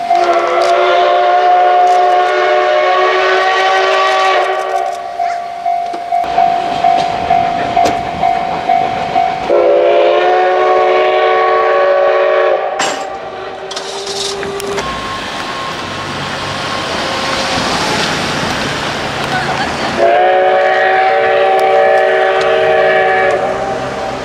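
Steam whistle of the SL Ginga's C58 steam locomotive sounding a chord of several tones in three blasts. The first is long, the second short, and the third comes near the end. A rushing steam hiss fills the gaps.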